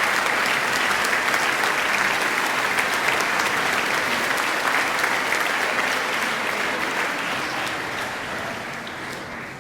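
A concert audience applauding, the clapping thinning and dying away over the last few seconds.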